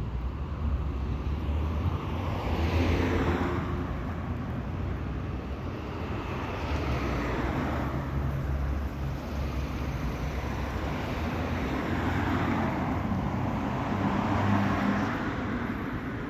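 Street traffic: a steady low engine rumble, with cars passing one after another and their tyre and engine noise swelling and fading, about three seconds in, about seven seconds in, and again longer near the end.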